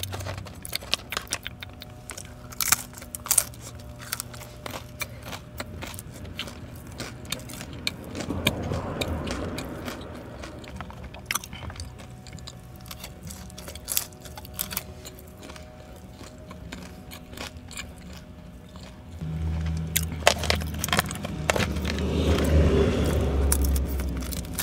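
Close-up eating sounds of fried dumplings: chewing and crunching with many small clicks and smacks. A louder low hum swells about eight seconds in and again over the last five seconds.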